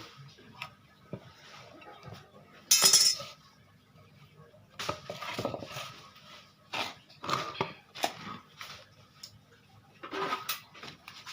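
Clinks, rattles and knocks of tools and pieces being handled on a workbench, with one loud metallic rattle about three seconds in.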